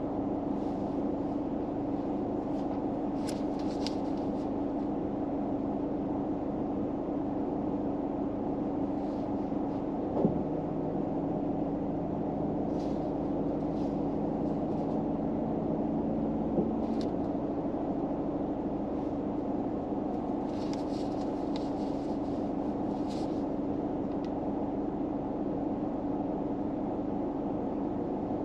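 Steady low hum of a car interior. A second lower tone comes in with a click about ten seconds in and stops with another click around seventeen seconds, and there are a few faint brief rustles.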